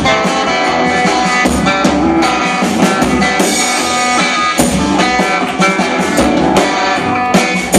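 Live band playing an instrumental passage of the song between sung verses, with a steady beat.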